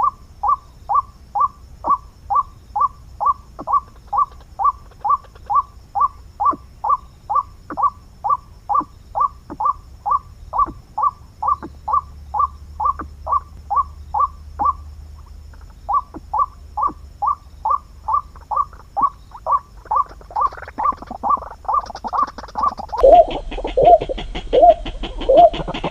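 White-breasted waterhen calling: a long, steady run of short, identical notes, about two and a half a second. The run pauses briefly about fifteen seconds in, then resumes. Near the end it switches to lower, louder notes.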